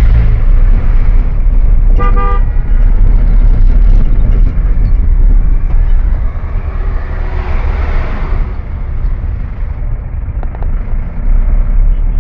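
Heavy low rumble of road travel, with wind buffeting the microphone. A vehicle horn honks once, briefly, about two seconds in, and a rushing swell of noise rises and fades around eight seconds, like a vehicle passing close by.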